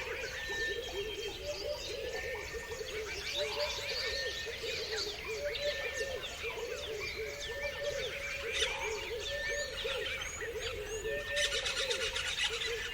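A chorus of many birds chirping and singing over one another, with dense high chirps above a steady run of lower repeated calls. A clear whistled note recurs every couple of seconds, and a burst of fast chirping comes near the end.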